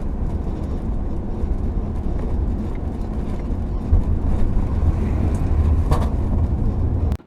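Steady low rumble of a motor vehicle driving, road and engine noise with no distinct events, cutting off abruptly just before the end.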